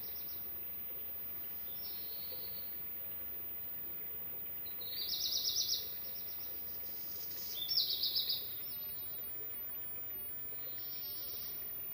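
A songbird singing short, rapid trilled phrases, one every two to three seconds, the loudest two about halfway through, over a steady background hiss.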